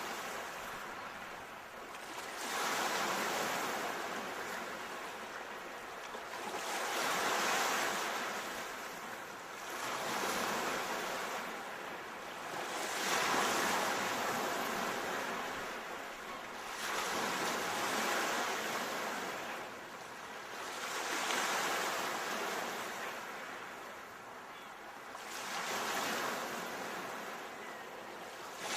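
Ocean waves washing onto a shore, each surge rising and falling away every four to five seconds, about seven swells in all.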